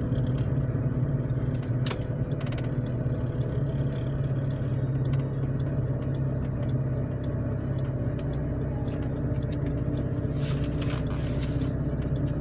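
A car's engine and road noise heard from inside the cabin, a steady low hum as the car slows and then idles in traffic. A few faint clicks come about two seconds in and near the end.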